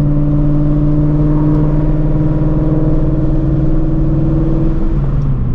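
Ford Shelby GT350's 5.2-litre flat-plane-crank V8 with long-tube headers and straight-piped exhaust, cruising at steady revs, a constant drone. Near the end the revs ease off and the pitch drops a little.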